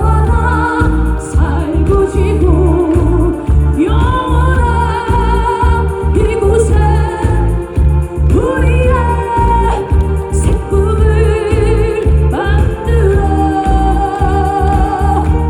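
A woman singing a Korean trot song with vibrato over a backing track with a steady bass beat.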